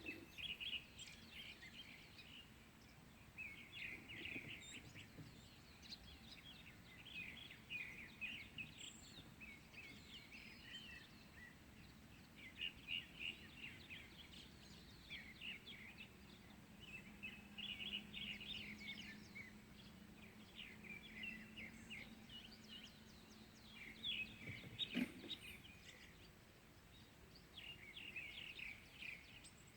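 Faint morning birdsong: several small birds chirping in short, repeated phrases. A low steady hum joins for several seconds past the middle, and a single knock sounds near the end.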